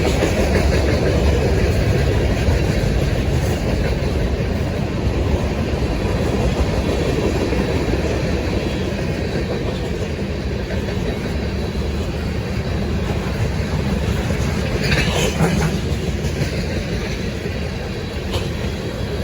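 Train rolling past on the track: a steady rumble of wheels on rail that eases off slightly toward the end, with a brief sharper noise about fifteen seconds in.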